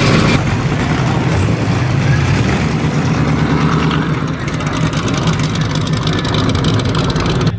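A car's engine running steadily, loud, with some voices under it; it cuts off suddenly at the end.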